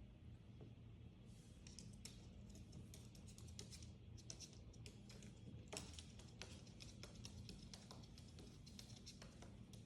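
Near silence: a low steady hum with many faint, irregular light clicks and scratches.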